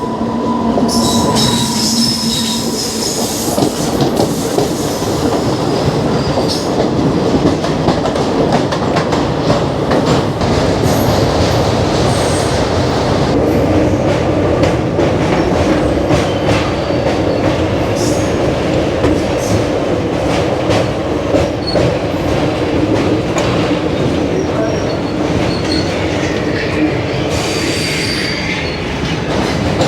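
Vibhuti Express passenger coach running at speed, heard from on board: a loud, steady rumble of wheels on rail with many quick clicks of the track. Brief high-pitched wheel squeals come about a second in and again near the end.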